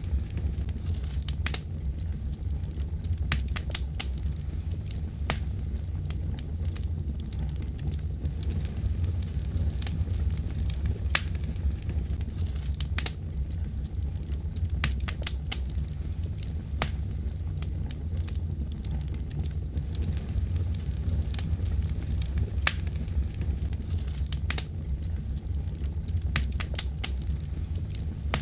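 Wood fire crackling: a steady low rumble of the burning with irregular sharp pops and snaps, sometimes single and sometimes a few in quick succession.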